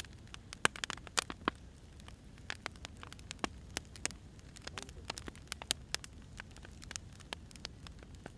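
Burning firewood crackling, with frequent irregular sharp pops over a low steady rumble.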